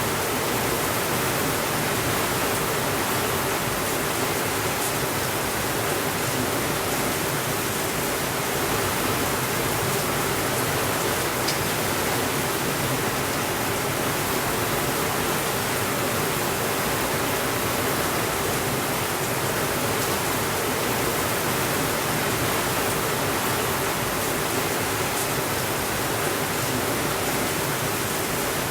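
Steady, even rainfall with no thunder, a constant hiss with a few faint ticks now and then.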